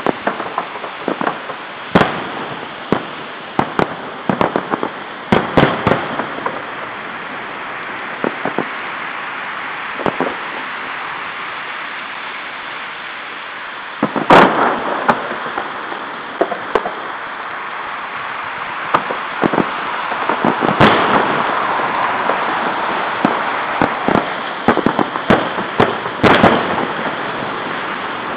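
Fireworks display, aerial shells bursting with sharp, irregular bangs over a steady hiss. The bangs come in clusters: a quieter stretch in the middle, a loud volley about fourteen seconds in, and another dense run near the end.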